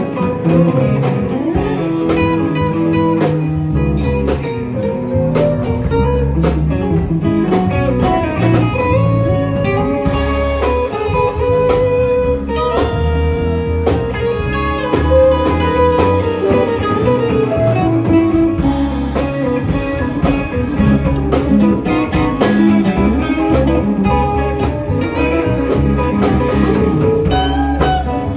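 Live rock band playing an instrumental jam: a guitar playing a lead line over bass and a drum kit, with no singing.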